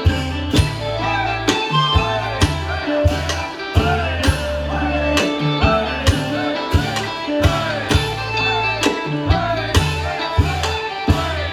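Isan pong lang band playing a folk tune, with a steady drum beat of about two hits a second under sustained deep bass notes and a winding melody.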